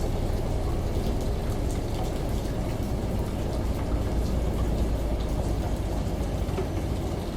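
Steady rain with scattered small drops pattering, over a constant low rumble.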